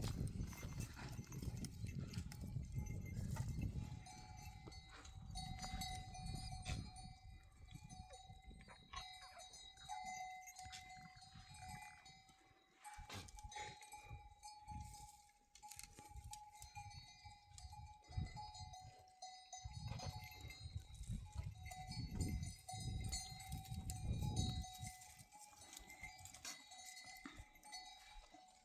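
Neck bells on a herd of goats and sheep ringing and clanking as the animals move, with scattered clicks and intermittent low rumbles.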